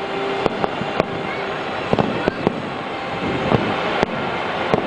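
Aerial fireworks shells bursting: a run of sharp, uneven bangs and pops, about two a second, over a continuous noisy rumble of further bursts.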